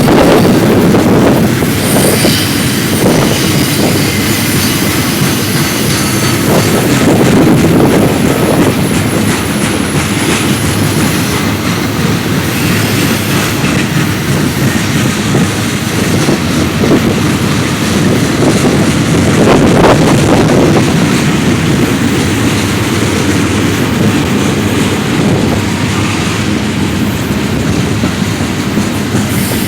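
Freight cars of a manifest freight train rolling steadily past, their wheels clacking over the rail joints. A thin, high wheel squeal sounds for the first ten seconds or so.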